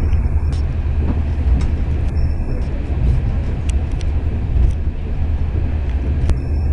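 Passenger train running at speed, heard from inside the carriage: a steady low rumble with a few light clicks.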